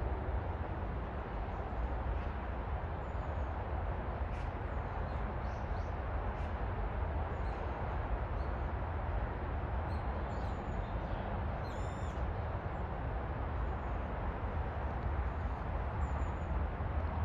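Steady outdoor background rumble, like distant traffic or wind, with faint high bird chirps scattered throughout and one clearer call about twelve seconds in.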